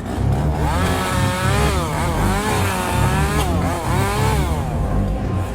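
Chainsaw running and being revved over and over, its engine pitch swooping up and down above a rough, choppy low rumble.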